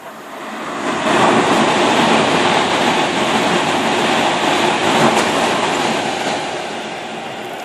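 A train passing, with wheels running on the rails: the noise builds over the first second, stays loud for about five seconds, then fades away.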